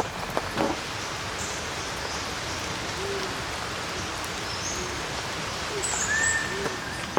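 Steady rain-like hiss with a series of short, low hooting calls in the middle, each one arched in pitch, and a few high whistled bird notes near the end.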